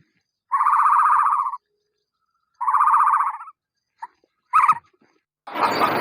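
An animal calling: two pulsed, pitched calls of about a second each, then two much shorter calls near the end.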